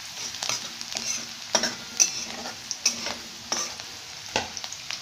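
Chopped garlic and green chillies sizzling in hot oil in a metal kadhai, with a steady hiss. A utensil stirring them scrapes and knocks against the pan at irregular moments, about once a second.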